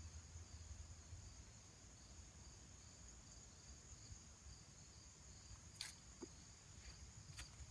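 Near silence: a faint, steady high-pitched chirring of insects, with a single faint click about six seconds in.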